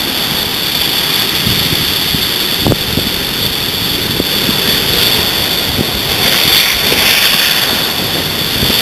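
Steady rush of wind over the microphone and water hissing along the hull of a kayak under sail, with a few small slaps of water.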